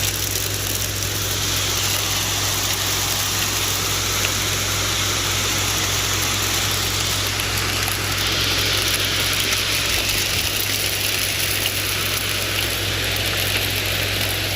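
Heavy hail and rain pelting down as a steady hiss, with a steady low hum underneath.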